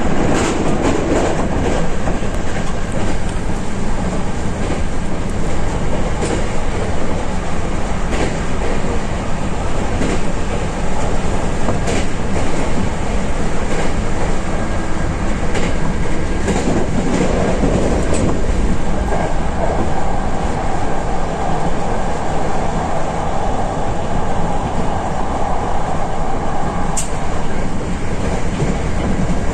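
Hankyu limited express train running along the line, heard from inside the leading car: a steady rumble of wheels on rail with scattered clicks. A steady higher tone joins about two-thirds of the way through and stops near the end with a sharp click.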